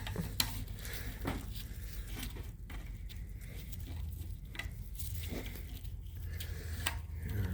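Scattered light clicks, taps and scrapes of hand tools working on a seized brake bracket, over a steady low hum.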